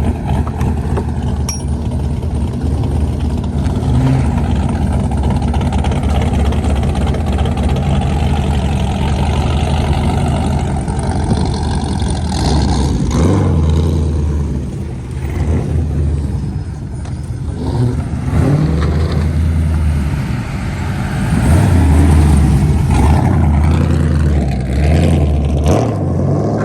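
Loud exhausts of several muscle and classic cars cruising past, engines running and revving, sounding "nasty". The sound swells and fades as cars go by, loudest about three quarters of the way through.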